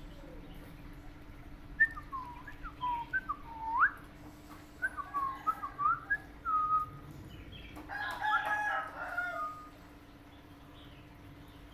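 A pet parrot whistling: a run of short whistled notes sliding up and down, then a denser burst of chirpy whistles about eight seconds in.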